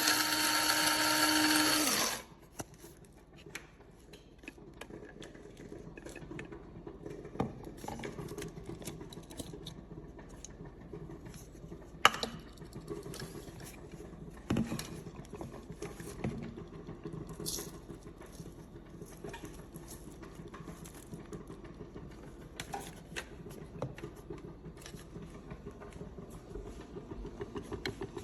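Amazon Basics electric coffee grinder's motor running with a steady whine, cutting off about two seconds in. After that come faint handling noises with scattered clicks and knocks, including one sharp click near the middle.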